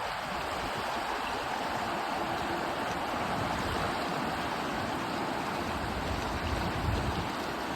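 Steady rushing of river rapids and small falls, an even roar of white water with no motor note standing out. A brief low rumble comes about seven seconds in.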